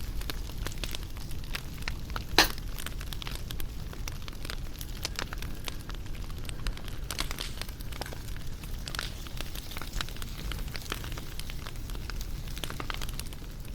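Wood fire crackling, with many small irregular pops and snaps over a low steady rumble of flame, and one louder pop about two and a half seconds in.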